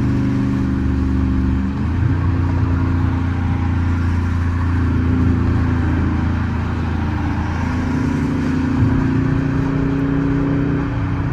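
Straight-piped, catless Dodge Charger R/T's 5.7 HEMI V8 exhaust, heard from inside the car while driving: a steady loud drone. Its pitch shifts about two seconds in and changes again around eight seconds.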